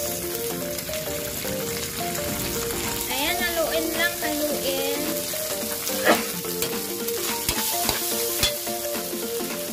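Shredded chicken sizzling in hot oil in a wok while a metal spatula stirs it, scraping and knocking against the pan, with one sharp knock about six seconds in.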